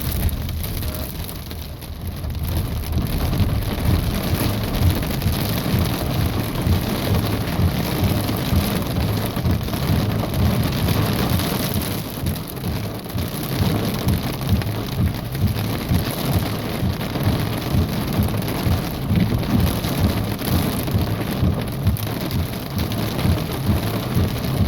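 Heavy thunderstorm rain mixed with pea-sized hail drumming fast and densely on a car's roof, heard from inside the car.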